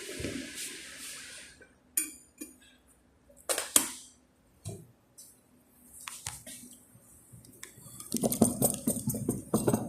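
Dishes and utensils being handled: scattered clinks and knocks, then a dense run of clattering near the end. A steady hiss fades out in the first second and a half.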